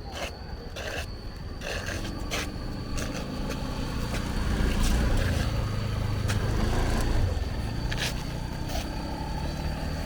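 Small motorbike engine running as the bike is ridden, getting louder towards the middle and easing off near the end, with a few sharp clicks.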